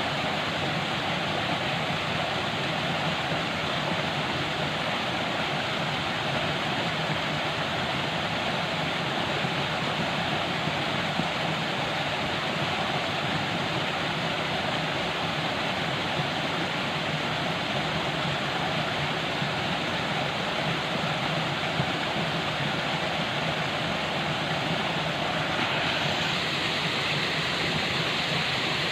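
Steady rush of falling water. About 26 seconds in the sound changes abruptly to a brighter hiss.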